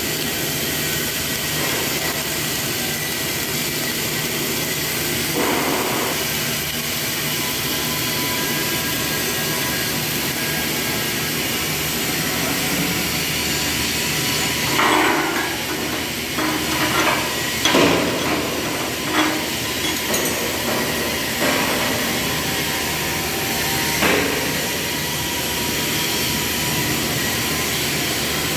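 A string of metal knocks and clanks, about seven of them, coming in the second half, over a steady hiss.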